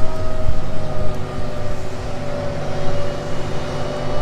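Food truck's engine and road rumble heard from inside the cab while driving, a steady low rumble with a faint steady whine over it.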